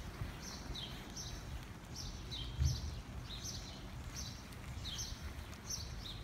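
Small birds chirping: short, quick downward notes repeated every half second or so, over a low rumble with a single thump about two and a half seconds in.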